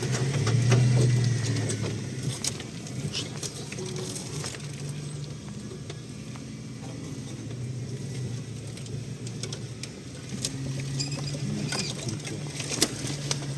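A vehicle engine running at low revs, a little louder about a second in, with scattered knocks and rattles typical of driving slowly over rough off-road ground.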